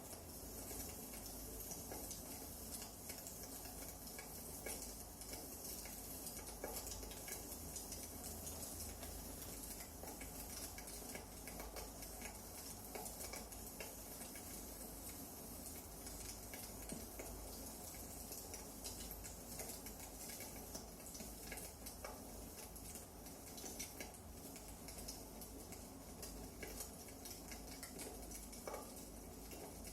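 Burning firewood crackling: a faint, steady hiss with frequent small, irregular snaps.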